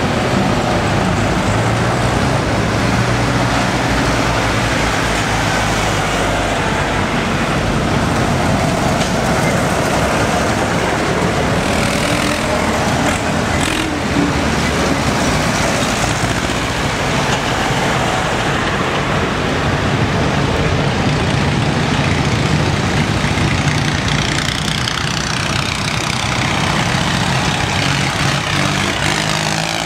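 Tractor engines running steadily, a low engine hum under broad mechanical and road noise.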